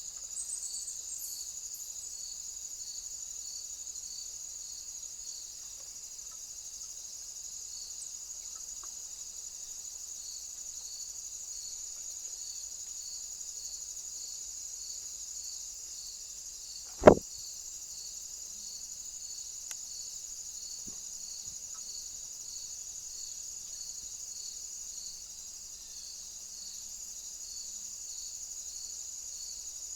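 Crickets chirping steadily in a continuous high trill with a regular pulsing beat. A single sharp knock stands out a little past halfway through.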